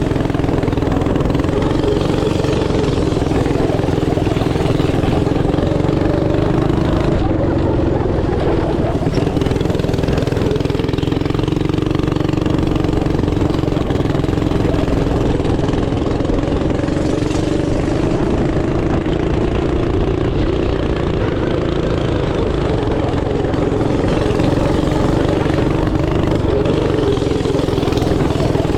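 Small single-cylinder engine running steadily and close up, its pitch drifting gently up and down as the throttle changes.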